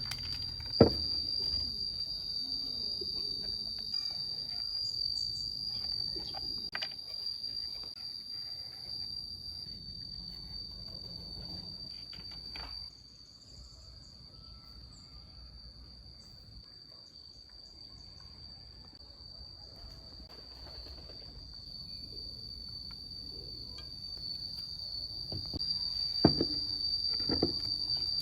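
A steady, high, insect-like chirring tone, like crickets, runs throughout. A few sharp knocks come about a second in and again near the end.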